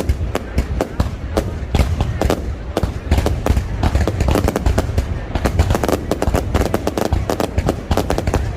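Fireworks display going off: a dense, continuous run of sharp bangs and crackles, several a second, over a steady low rumble.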